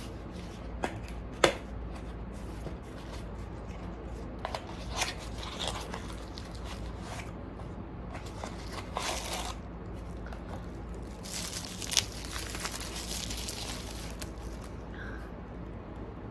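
Rustling, crinkling and scattered light clicks of things being handled, with a longer rustle near the end, over a steady low hum.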